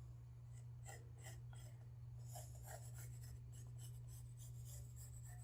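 Faint scratching strokes of curves being drawn by hand on a plywood blank, marking out an S-curve cut line, over a steady low hum.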